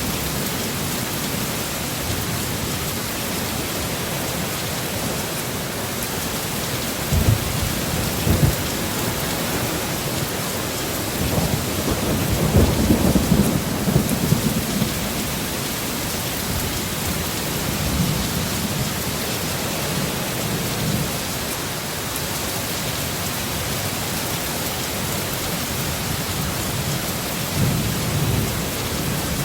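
Heavy rain falling steadily, with low rumbles of thunder rolling through it: two short sharp thumps, then a longer, louder rumble about halfway through, and fainter ones later.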